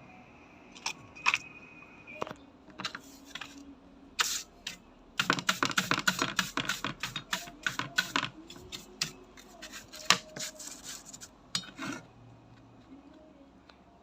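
Hand work on a metal bayonet scabbard: a run of sharp, quick scraping clicks, scattered at first, densest for about three seconds in the middle, then sporadic.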